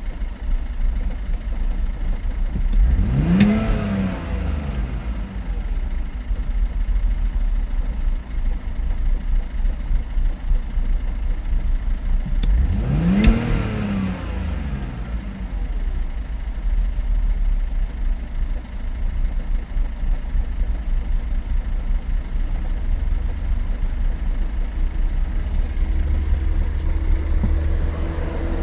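BMW E60 2.2i's straight-six engine idling in a test run, revved twice about ten seconds apart. Each rev rises quickly in pitch and falls back to idle.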